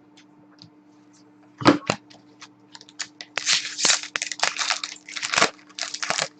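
Hockey card packs and cards being handled: a sharp knock about a second and a half in, then a run of crinkling, tearing and rustling of the pack wrappers and cards.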